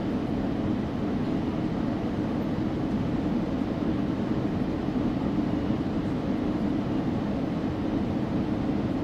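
Steady low rumble of a moving train, even throughout with no distinct clanks or horn.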